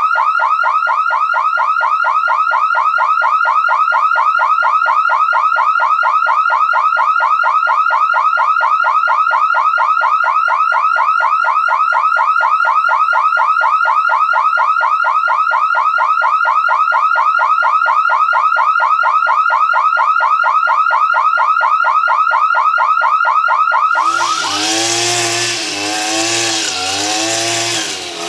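Electronic alarm tone, a steady high beep pulsing very rapidly without a break. About 24 seconds in it cuts off abruptly, replaced by a harsh, noisy mechanical sound whose pitch wavers up and down.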